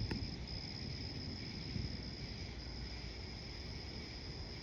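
Night insect chorus: a steady, unbroken high trill. Underneath it runs a low, uneven rumble, and there is one sharp click just after the start.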